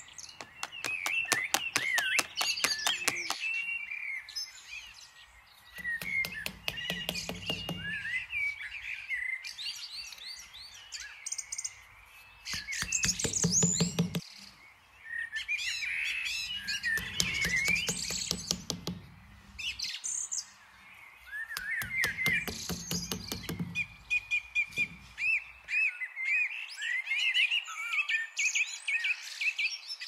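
Small birds chirping and twittering throughout, with five spells of rapid clicking and rustling, each lasting a second or two.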